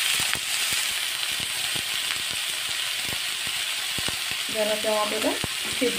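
Chopped tomatoes, green chillies and onion-ginger-garlic masala sizzling in oil in a kadai, with a steady frying hiss and a metal spatula clicking and scraping against the pan.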